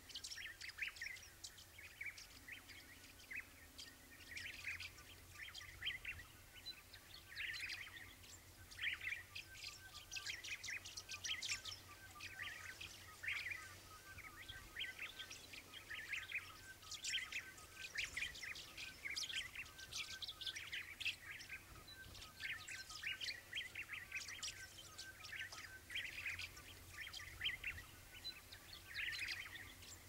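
Faint chirping and twittering of small birds: many short, high calls in quick succession, on and off throughout.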